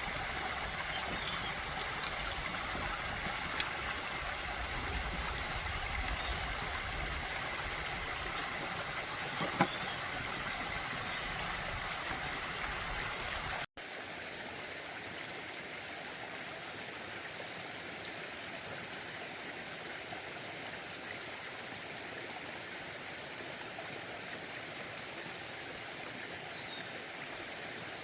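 Steady outdoor rushing noise, like running water, with a thin high steady tone over it in the first half. The noise changes abruptly at a cut about halfway through and becomes thinner and slightly quieter.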